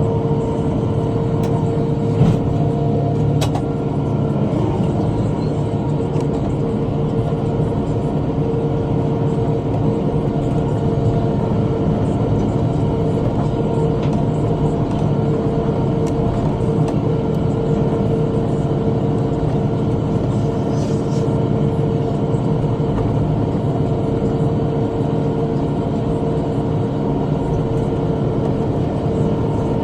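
Tractor running steadily under load while pulling a rotary cutter (bush hog) through brush: an unbroken mechanical drone with a held, fairly high tone over it, and a couple of faint clicks a few seconds in.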